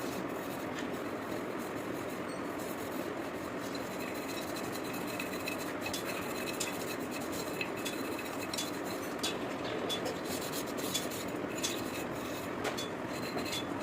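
Scattered light metallic clicks and scraping, as of hand tools working on small metal parts, over a steady background of noise.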